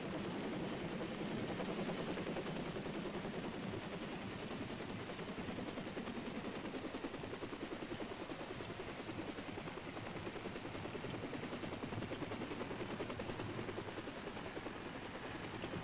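Helicopters running on the ground at the loading zone: engine noise and a fast, steady chop of the rotor blades.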